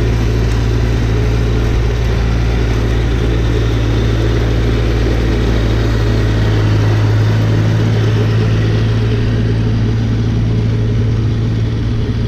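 Snowblower engine running steadily at a constant pitch.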